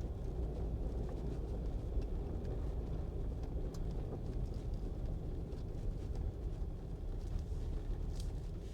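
Jeep driving along a road, heard from inside the cabin: a steady low rumble of engine and tyres.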